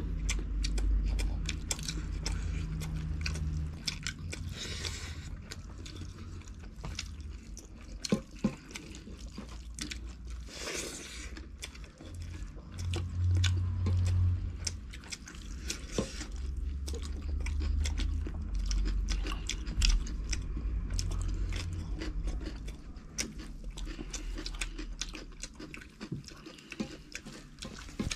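Close-miked eating sounds: chewing, smacking and swallowing of rice and curry eaten by hand, with irregular wet clicks and the fingers working the rice on the metal plates.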